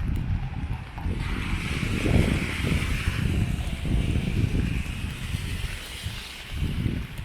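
Wind buffeting the microphone in uneven gusts, while a vehicle passes with its tyres hissing on the wet road, swelling about a second in and fading away near the end.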